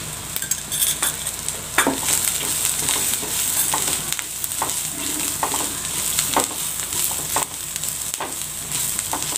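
Sliced onions and spices frying in oil in a non-stick kadai, sizzling steadily, while a spatula stirs and scrapes through them in strokes about once a second.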